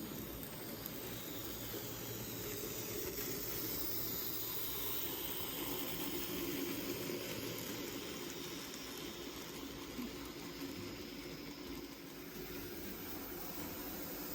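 N gauge model train running along the layout track: a steady whirring hum and hiss from the small locomotive motor and the wheels on the rails, swelling a little midway.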